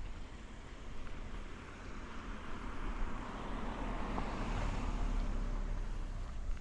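A car passing by, its tyre and road noise rising to a peak and then fading, over a low rumble of wind on the microphone.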